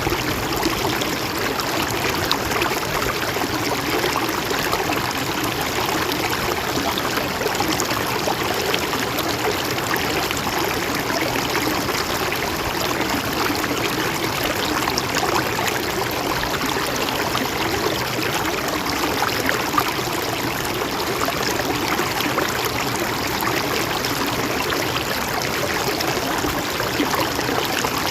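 Mountain stream flowing over rocks: a steady, even rush of water with fine splashing and trickling detail.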